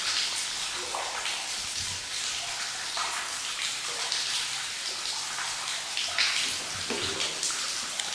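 Spirit box radio scanning, giving a steady hiss of static broken by quick choppy flickers.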